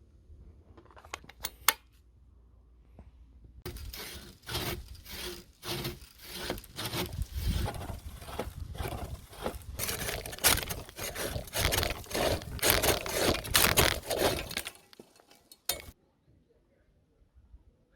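Curved pruning saw blade (WOLF-Garten Power Cut Saw Pro 370) cutting through a tree branch, with repeated quick back-and-forth sawing strokes for about eleven seconds, loudest near the end of the cut. A few short clicks come before the sawing starts, and one more comes after it stops.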